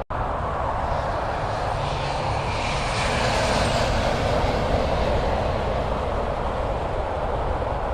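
Road traffic noise: a steady rush of tyres and engines that swells for a moment about three seconds in as a vehicle goes past.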